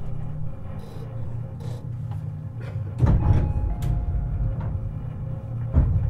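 Tobu 50090-series commuter train heard from beneath the car floor: a steady low hum, broken by a loud thump with a rattle about three seconds in and a second sharp thump near the end.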